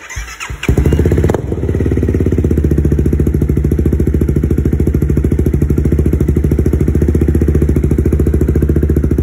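Honda CB300F's single-cylinder engine, fitted with a new carbon-fibre Akrapovic exhaust, cranked and catching on its first start-up. It revs briefly about a second in, then settles into a steady idle.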